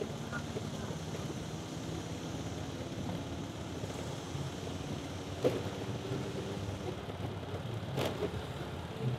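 Small motorcycle engine running steadily at low speed, with road noise. Two sharp clicks come about five and a half and eight seconds in.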